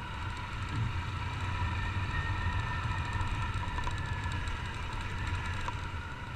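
Honda CG 150 Titan's single-cylinder four-stroke engine running steadily on the move.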